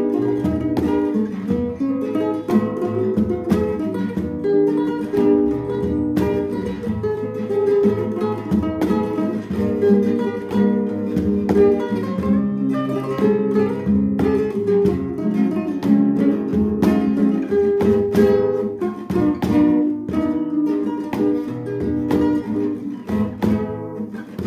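Acoustic guitar playing a song, a steady run of plucked notes and chords.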